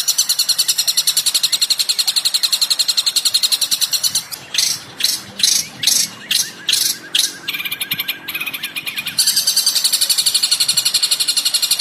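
Recorded songbird calls from a bird-song masteran track: a rapid, high, continuous chattering trill, broken about four seconds in by about eight loud, sharp descending notes, then a short lower buzzy series, before the fast chatter starts again.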